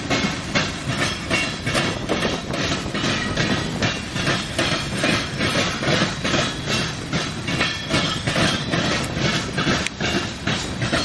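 Freight train of grain cars rolling past, steel wheels clicking over the rail joints in a rapid, even rhythm of about three to four clicks a second over a steady rumble.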